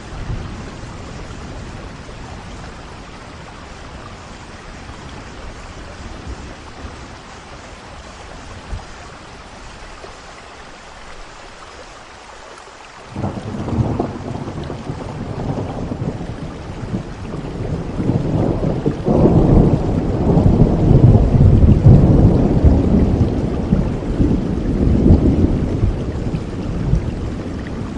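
Steady rainfall, with a long roll of thunder breaking in suddenly about halfway through. The thunder builds to a loud rumble a few seconds later, then slowly fades.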